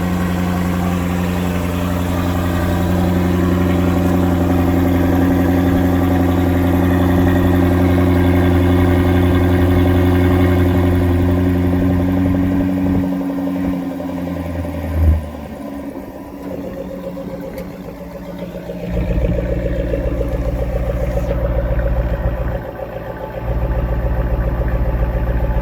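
2021 Jaguar F-Type R's supercharged V8 idling steadily through its exhaust. The engine note dips about 13 seconds in, with a brief blip near 15 seconds. It runs quieter for a few seconds, then returns to a steady idle.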